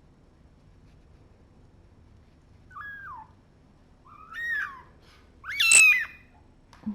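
Young kitten crying: three short meows, each louder than the last, starting about three seconds in.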